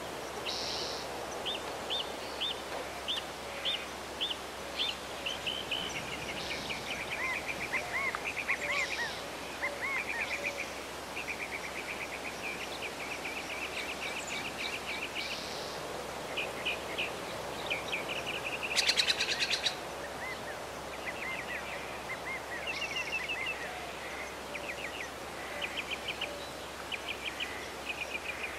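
Several birds calling and chirping: strings of short, repeated high notes overlapping one another, and a louder buzzy trill lasting about a second around two-thirds of the way through.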